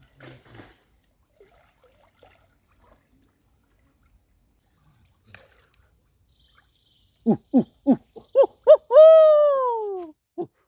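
An animal's loud pitched call: a run of six quick notes, each sliding down in pitch, then one long note of about a second that arches up slightly and falls away, and a last short falling note.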